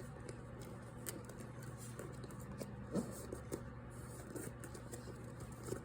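Origami paper being folded and creased by hand: faint rustles and scrapes, with one sharper tap about three seconds in, over a steady low hum.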